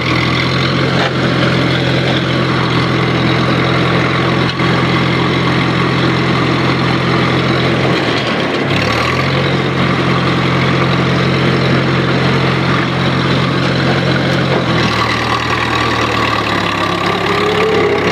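Farmall M tractor's four-cylinder engine running steadily while the tractor is driven, with a brief drop and recovery in engine speed about halfway through, as at a gear change. A whine rises near the end.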